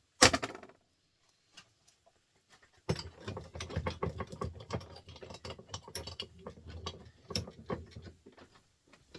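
A sharp metallic clatter, then after a pause about five seconds of rapid, uneven clicking and rattling from hand work on small metal printer parts.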